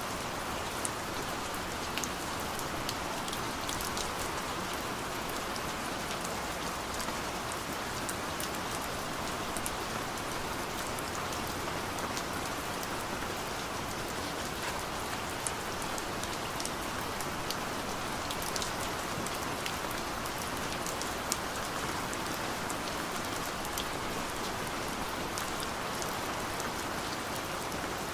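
Steady rain falling on a car, heard from inside the cabin: an even hiss with scattered small drop ticks on the roof and glass.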